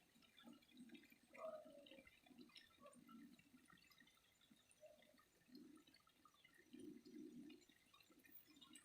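Faint water flowing and dripping in uneven gurgles, with scattered small ticks. One short sliding tone about a second and a half in is the loudest sound.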